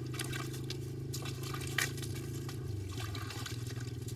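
A steady low hum with scattered sharp clicks and wet, watery sounds; one louder click comes a little under two seconds in.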